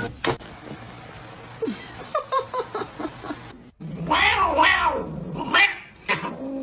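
A cat meowing: a few faint short meows in the first half, then, after a brief cut, several loud drawn-out meows that rise and fall in pitch.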